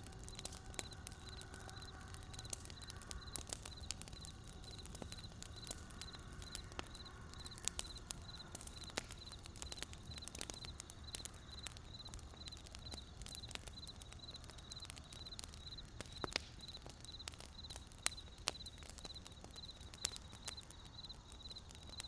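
Wood burning in a campfire, crackling with irregular sharp pops over a soft low background, a few pops standing out louder than the rest. A fast, even, high-pitched pulsing runs steadily alongside.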